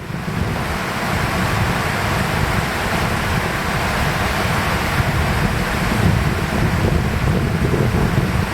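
Wind buffeting the microphone: a steady rushing with an uneven low rumble.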